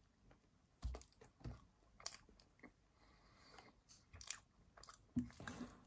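Faint mouth sounds of a person biting into and chewing a soft jam-filled croissant: a few scattered soft clicks and smacks.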